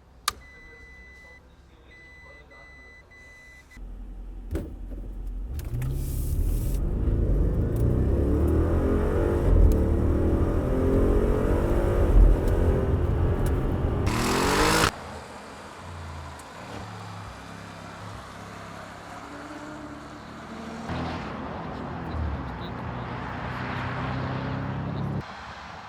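A series of short beeps, then the Audi RS7's twin-turbo V8 pulling hard under full acceleration, its pitch climbing and dropping back through several upshifts. Near the middle the engine note cuts off sharply, and the engine runs on more quietly and steadily.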